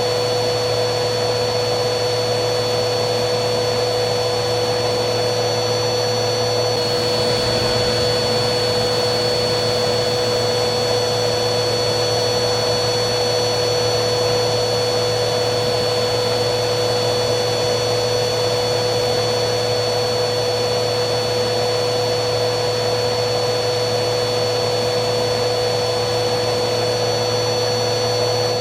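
Vacuum cleaner running steadily: a constant rushing airflow with a fixed motor whine over it. About seven seconds in, the high whine shifts slightly in pitch.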